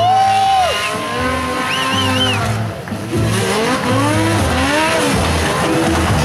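Racing car engine at high revs, lifting briefly about two and a half seconds in, then climbing and dropping in pitch several times in quick succession as it shifts through the gears on the climb.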